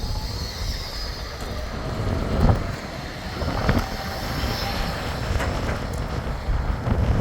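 Bombardier Flexity 2 tram running on the track: a low rumble with a faint steady whine and two sharp knocks, about two and a half and nearly four seconds in, with wind on the microphone.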